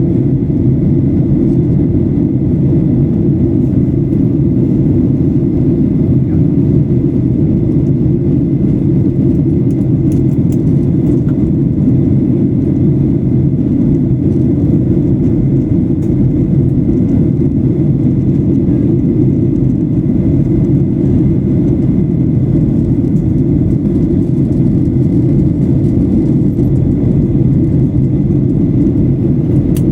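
Boeing 737-800 cabin noise: the steady low rumble of the jet engines and airflow, unchanging throughout, with a faint steady high whine above it.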